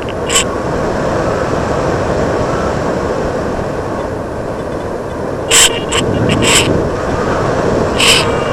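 Rushing airflow over a camera mounted on an EasyGlider Pro RC model glider in flight: a steady noise, broken by a few short, sharp crackles about five to six and a half seconds in and again near the end.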